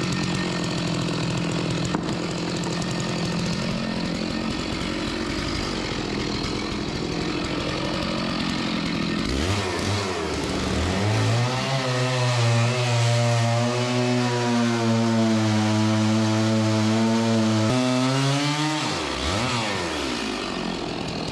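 Gas chainsaw cutting into a large sugar maple log, trimming off the top so it fits under the sawmill. About halfway through, the engine note climbs to a steady high pitch and holds for several seconds, then drops near the end.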